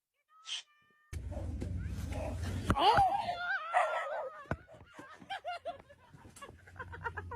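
A cat meowing, several wavering calls rising and falling in pitch over a low hum.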